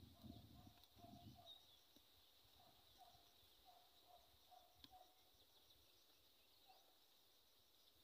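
Faint rural outdoor ambience: a bird repeating short low notes about once a second over a steady high-pitched whine, with a few low rumbles near the start.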